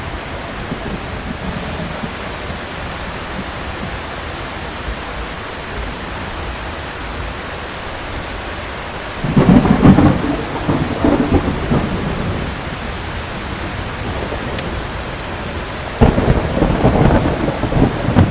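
Heavy rain falling steadily, with two loud claps of thunder, the first about nine seconds in and the second near the end, each rumbling on for a couple of seconds.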